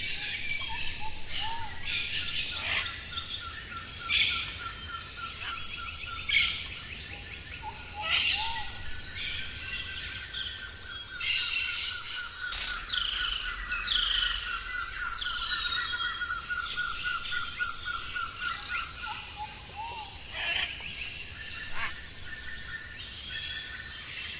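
A chorus of birds calling and chirping over one another. Underneath, a fast, even trill keeps going until it stops near the end.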